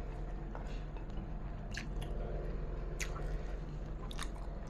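A person chewing jengkol (dog fruit) rendang eaten by hand, with wet mouth sounds and a few sharp smacking clicks about two, three and four seconds in, over a low steady hum.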